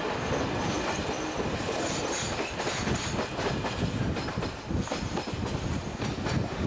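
Local passenger train running along the line, heard from on board: a steady rumble and rush with the irregular clatter of the wheels over the rail joints.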